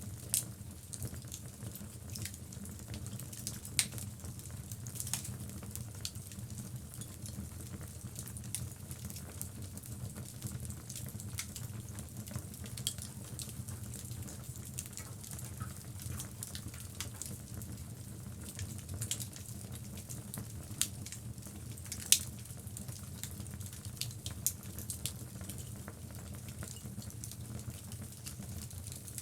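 Wood logs burning in a fireplace: a steady low rumble of the fire with frequent small crackles and sharp pops, the loudest pop about 22 seconds in.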